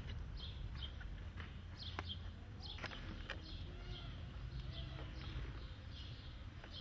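Small birds chirping, short high chirps about twice a second, over a steady low background rumble.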